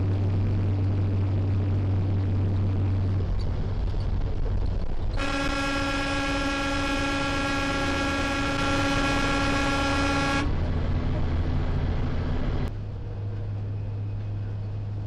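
Steady engine and road drone, with a long vehicle horn blast of about five seconds beginning about five seconds in.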